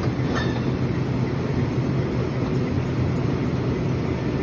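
Steady mechanical hum and fan rush of refrigeration equipment in a walk-in cooler, with a faint brief knock about half a second in.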